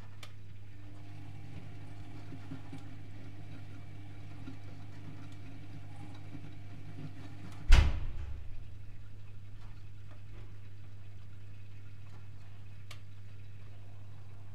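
Privileg Multispar 5110 washing machine on a 75 °C boil wash, giving a steady low hum with a fainter tone over it. About eight seconds in there is a single loud clunk, and the fainter tone stops with it.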